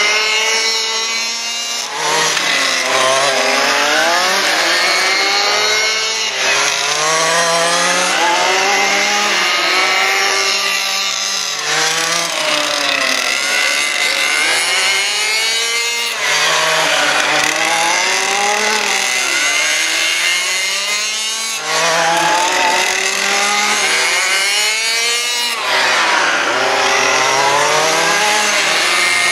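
Several 1:5 scale RC cars' small two-stroke petrol engines (23 cc and 30 cc) revving hard and easing off as they race, their pitches rising and falling and overlapping. The sound shifts abruptly every four to five seconds.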